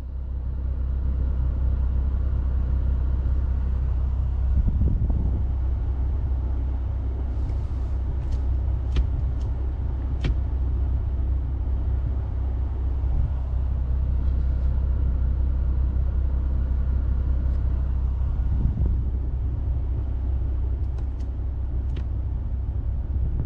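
Car being driven, a steady low rumble of engine and road noise with a few faint clicks near the middle and near the end.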